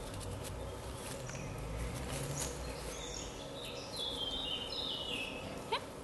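Outdoor background rumble with a small bird singing a run of high, stepping notes in the middle. A short rising squeak comes near the end.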